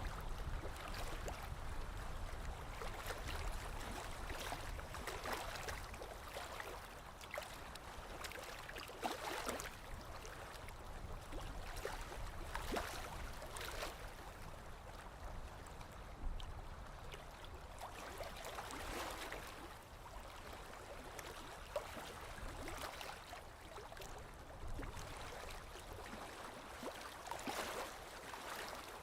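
Small lake waves lapping against the shore, soft irregular splashes every second or two.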